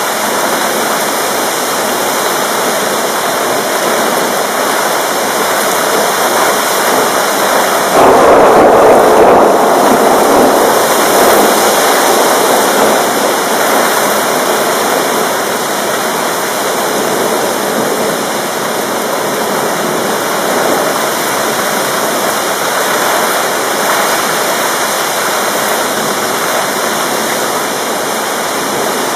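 Heavy rain pouring steadily. About eight seconds in, a sudden louder rush with some low rumble dies down over several seconds.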